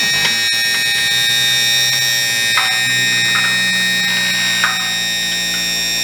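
Electric hydraulic pump of a Bigfoot landing gear running steadily with a high whine over a low hum, driving the cylinder down.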